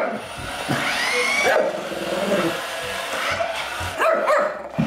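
Shih tzu barking and yipping several times, with a steady whine underneath.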